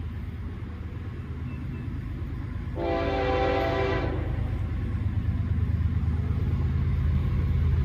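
Approaching Florida East Coast Railway diesel freight train: a low rumble growing steadily louder, with one blast of the locomotive's multi-chime air horn about three seconds in, lasting just over a second, sounding for the grade crossing.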